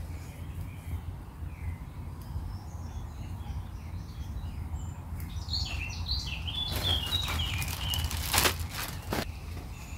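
Small birds chirping and calling over a steady low rumble, the calls thickest in the second half. Two sharp knocks or cracks come near the end, the first the loudest sound.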